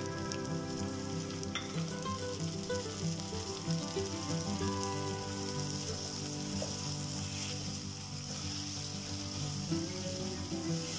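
Chopped tomatoes and onions sizzling in hot oil in a frying pan as they are stirred with a spatula, a steady frying hiss. Soft background music with sustained tones runs underneath.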